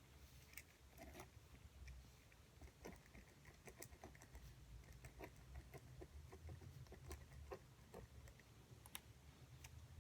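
Faint, irregular clicking and tapping, about two taps a second, over a low hum.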